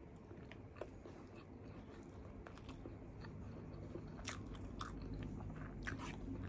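Close-miked chewing and mouth sounds of a person eating rice and sautéed string beans by hand, with scattered soft clicks and smacks over a low room hum.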